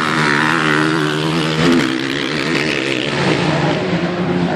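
Motocross motorcycle engines running on the track, a loud droning engine note that shifts in pitch a couple of times.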